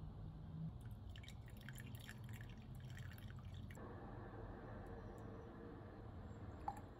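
Faint dripping water: a quick patter of small drops for a few seconds, then a steady faint hiss takes over.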